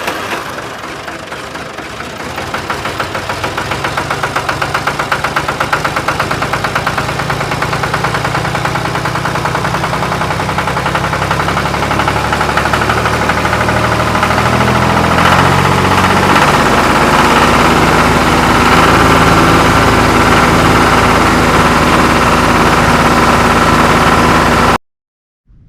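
A tractor-like engine running steadily with a fast, even knock. It swells over the first few seconds, then holds steady, and cuts off abruptly near the end.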